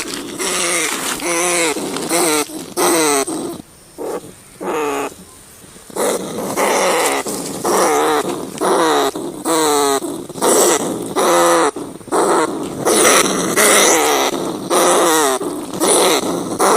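Rats crying: a quick series of short, wavering, pitched calls, one after another with only brief gaps, thinning out for a couple of seconds before picking up again.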